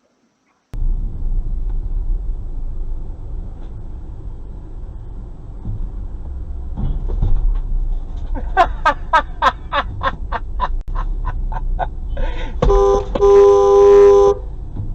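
Steady low road rumble of a moving car, then a quick run of short car horn toots, about three or four a second, and near the end one long horn blast of about a second and a half.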